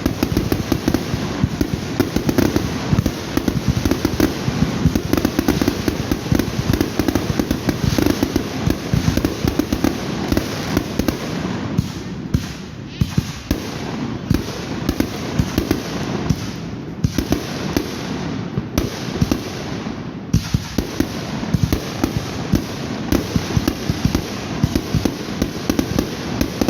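Fireworks display going off in a dense, continuous barrage of bangs and crackle, many shots a second, thinning only briefly a few times.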